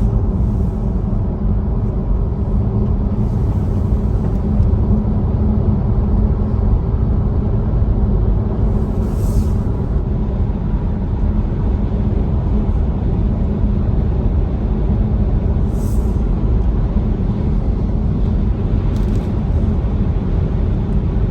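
Steady road and tyre noise heard inside a Tesla Model Y's cabin at highway speed, with no engine sound, and brief high hisses three times.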